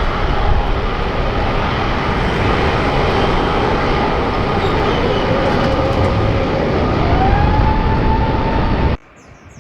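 Jet airliner engines running loud and steady, with a whine whose pitch drifts and rises about seven seconds in. The sound cuts off suddenly near the end, leaving faint bird chirps.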